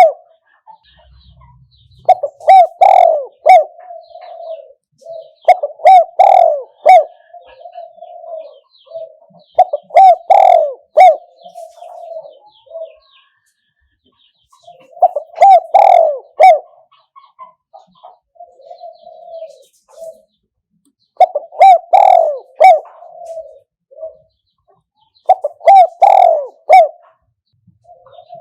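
A spotted dove cooing loudly in repeated phrases. About six phrases come every three to five seconds, each a burst of low coos trailed by softer notes, with a longer pause in the middle. It is the kind of call played to lure wild spotted doves.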